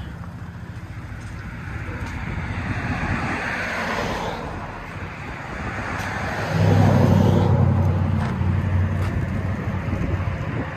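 2014 Ford F-150's twin-turbo EcoBoost V6 running through a resonator-delete dual exhaust with Carven R-Series mufflers, with steady road noise. A deep exhaust drone swells about six and a half seconds in, then slowly eases off.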